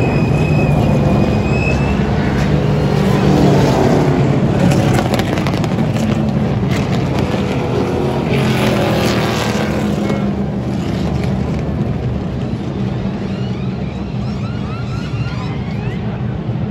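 NASCAR stock-car V8 engines running at racing speed on the track, a loud continuous drone of the field going by.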